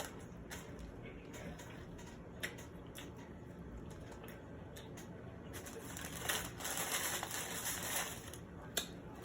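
Close-miked eating of a Taco Bell taco: chewing with scattered small crunches and clicks, becoming louder and denser for about two seconds after the six-second mark.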